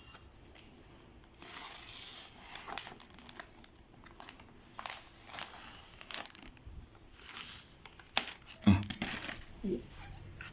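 Plastic food packaging being crinkled and torn open, with irregular rustles and sharp crackles starting about a second and a half in.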